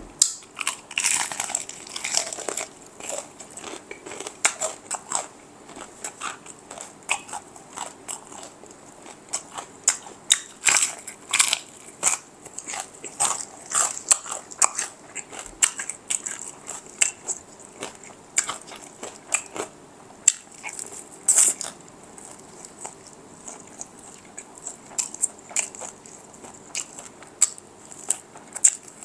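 Crisp fried chicken crunching under bites and chewing close to the microphone: a dense, irregular run of sharp crackling crunches.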